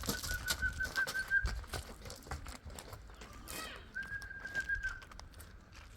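A bird's high, steady trill, heard twice, each about a second long, over scattered clicks.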